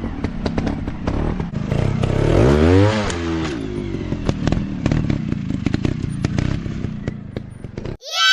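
Dirt bike engine running off-road, revving up and back down about two to three seconds in, with rapid clattering and knocking over it. It cuts off abruptly near the end and a high, falling shriek takes over.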